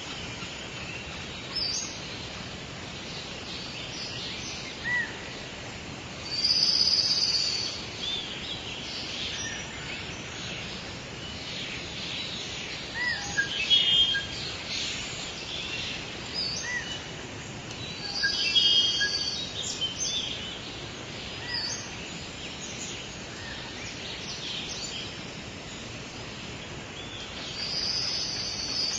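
Songbirds singing and calling over a steady background hiss of outdoor ambience, with louder spells of song at intervals of a few seconds.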